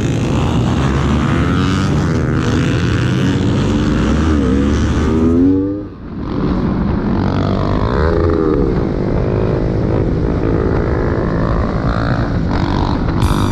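Motorcycle engine revving hard, its pitch climbing and dropping again and again through gear changes, with a steady rush of wind noise. About six seconds in the sound briefly dips and cuts, then the engine pulls and revs again.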